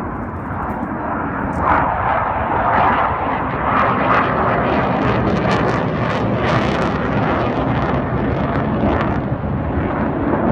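Jet noise from Blue Angels F/A-18 Hornets flying past, a steady loud rush that swells about two seconds in and holds.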